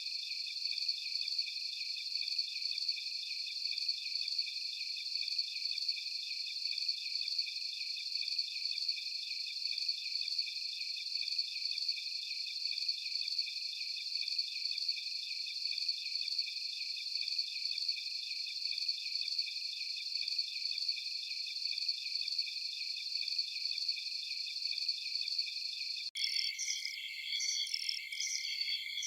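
Crickets chirping in a steady, rapid pulsing chorus. Near the end it switches abruptly to a different, choppier chirping rhythm.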